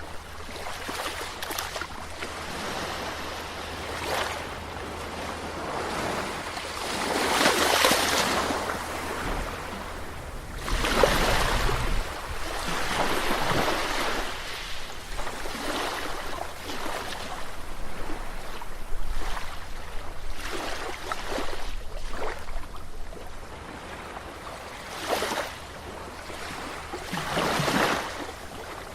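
Sea waves breaking and washing ashore, a rushing surge every few seconds, the biggest about a quarter and a third of the way in, with a steady low rumble underneath.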